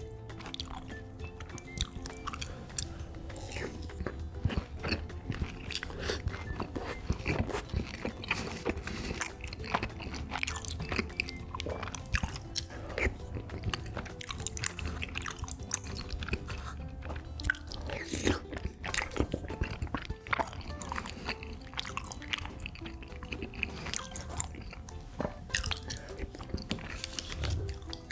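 Close-miked chewing and mouth sounds of eating tteokbokki rice cakes in rose sauce, with many short clicks of a spoon in a plastic bowl, over background music.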